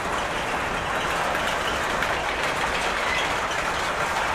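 Freight train boxcars rolling past: steady noise of steel wheels running on the rails.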